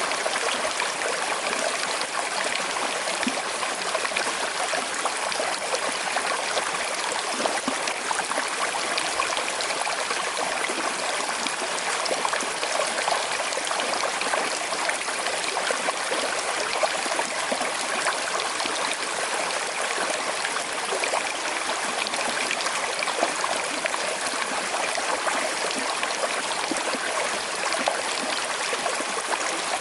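Small river flowing steadily over stones, a continuous even rush of water with fine trickling and splashing detail.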